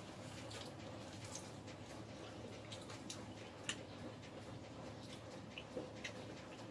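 A person chewing food with scattered soft wet clicks and lip smacks a few times a second or less, over a faint steady low hum.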